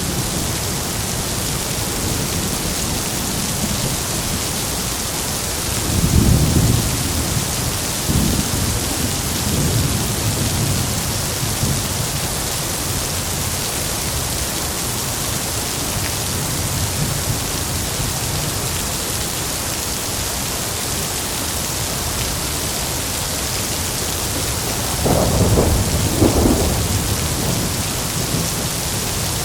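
Heavy steady rain with thunder rumbling twice, once several seconds in and again near the end.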